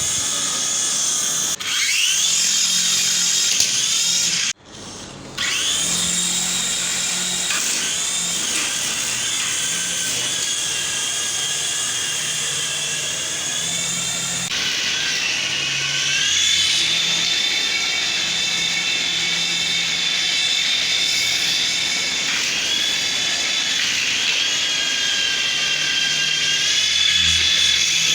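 High-pitched whine of a small electric motor spinning, as in a radio-controlled helicopter's motor and rotor, its pitch rising and falling as the speed changes. It drops out briefly about five seconds in, then runs on.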